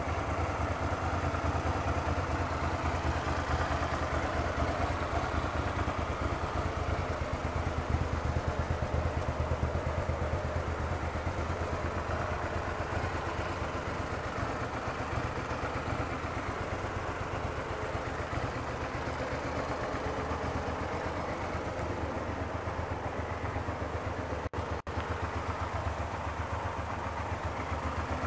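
2005 Suzuki SV650S's 645 cc 90-degree V-twin engine idling steadily.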